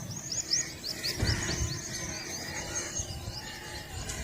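A bird singing a fast run of short, high, downward-sliding chirps, about five a second, that fades after the first couple of seconds. A brief low rumble sounds about a second in.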